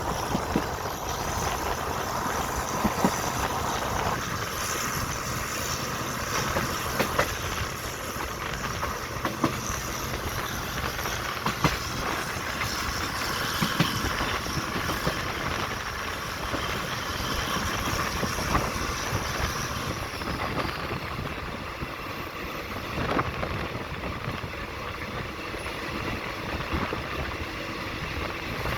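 Train running along the track with a steady rumble, its wheels clacking over rail joints every second or two.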